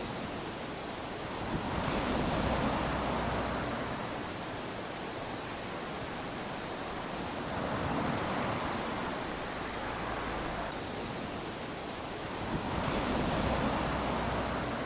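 Small waves lapping onto a sandy shore, with the wash swelling and fading about every five to six seconds, three times.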